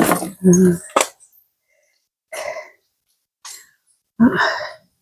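A person coughing and clearing their throat: a loud burst at first, then three short separate coughs over the next few seconds.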